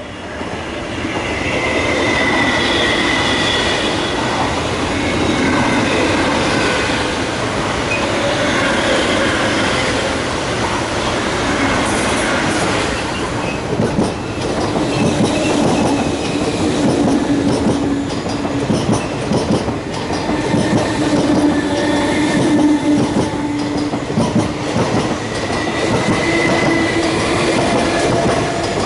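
An MTR East Rail line MLR electric multiple unit running past close by over the crossover points, building up in the first two seconds into a steady rumble. Its wheels clatter over the rail joints and points, with rapid clicks thickening about halfway through and some held squealing tones over the top.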